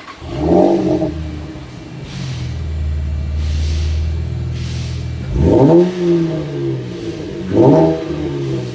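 2014 Chevy Camaro's 3.6-litre V6 running through single-chamber V-tube mufflers and a true X-pipe, idling and revved three times: a quick blip about half a second in and two more near the end, each rising and dropping back to idle.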